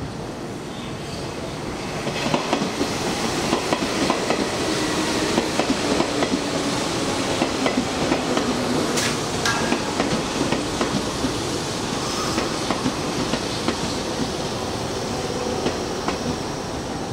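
Hanshin Railway electric train running alongside the platform, its wheels clacking over the rail joints in a steady run of clicks. The noise swells about two seconds in and stays up.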